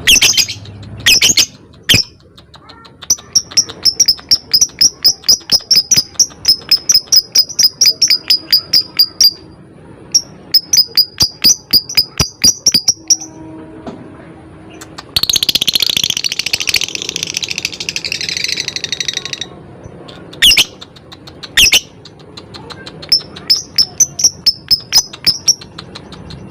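Lovebird calling: runs of sharp, rapid ticking calls, about four a second (ngetik), with a long, unbroken high chatter (ngekek) lasting about four seconds in the middle and a few single shrill calls after it. These are the sounds of a lovebird in full song, used as bait to get other lovebirds calling.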